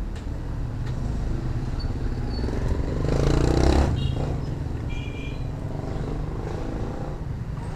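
Motorcycle engine running steadily, with a louder surge about three seconds in.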